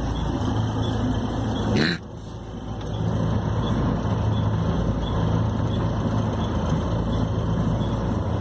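Bus engine running, heard from inside the cabin as a steady low hum. About two seconds in, a short loud burst of compressed-air hiss cuts off abruptly, the sound drops for a moment, then the engine hum builds back up.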